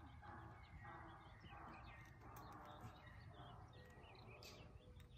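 Faint bird calls and chirps over a low steady rumble.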